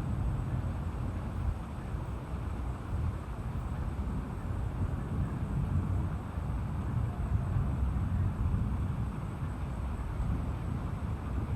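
Tropical storm ambience: a steady rush of rain and wind over a continuous low rumble.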